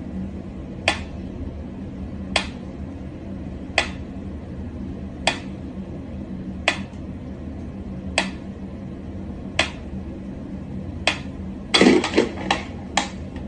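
Sharp light taps or clicks at a very even pace, about one every second and a half, over a steady low hum; near the end a quicker run of four or five louder taps.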